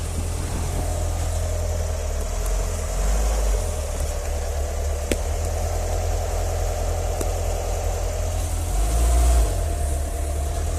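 A steady engine hum, as of ground equipment idling near the aircraft, under heavy low wind rumble on the microphone that gusts louder about three seconds in and again near the end.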